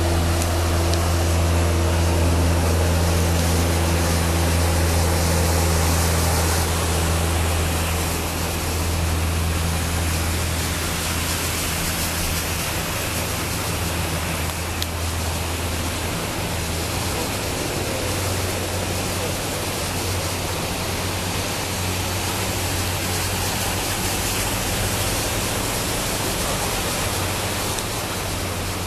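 Steady rushing of heavy rain water, with a vehicle engine humming low underneath that fades about halfway through.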